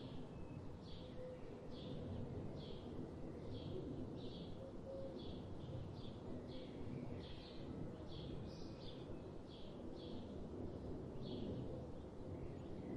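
A songbird repeating one short, high chirp over and over, about one and a half calls a second, over a steady low background rumble.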